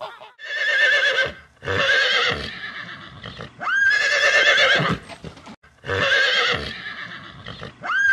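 A horse whinnying again and again: five loud, quavering calls about two seconds apart, some starting with a quick rise in pitch.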